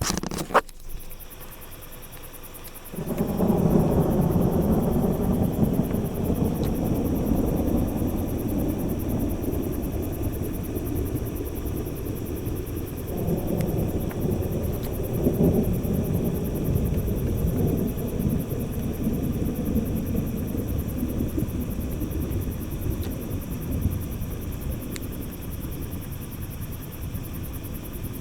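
A sharp click just after the start, then long rolling thunder from an intracloud crawler flash: a low rumble that sets in suddenly about three seconds in, swells again about halfway through and slowly fades without stopping.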